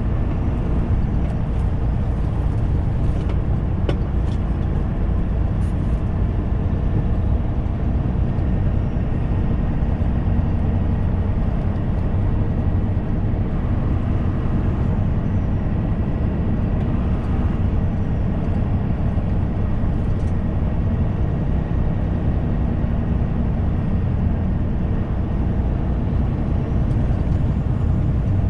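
Semi-truck driving steadily, its engine drone and road noise heard from inside the cab, with a few faint clicks a few seconds in.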